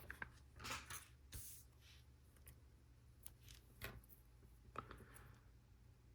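Faint handling noise: a few light plastic clicks and soft rustles of a LEGO Technic piece and its sticker sheet being handled while a sticker is applied, over a low steady hum.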